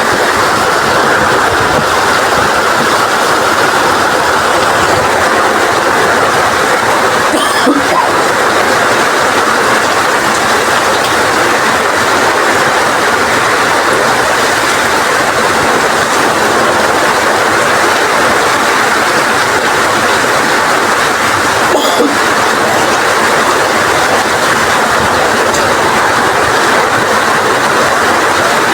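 Heavy rain driven by strong wind, a steady loud downpour, with two brief sharp taps about eight seconds in and again near twenty-two seconds.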